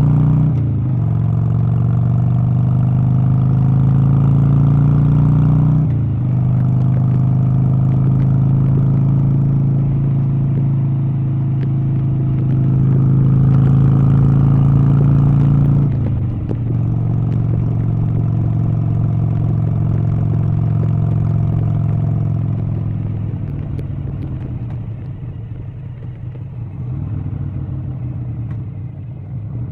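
An engine running steadily, with brief dips in pitch about 6 and 16 seconds in, growing quieter over the last several seconds.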